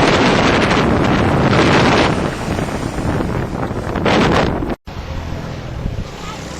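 Wind buffeting the microphone in gusts, as when riding a motorbike. It cuts out abruptly near the end and comes back quieter, with a low steady hum beneath.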